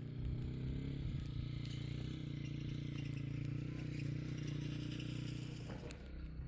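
A motor running steadily with a low, even hum that holds one pitch throughout.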